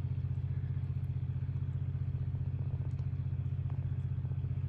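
Engine running steadily with an even, rapid throb and no change in speed.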